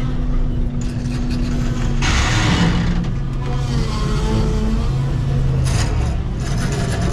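A loaded dump truck's engine labouring steadily under a heavy load as the truck climbs, with a short burst of hiss about two seconds in.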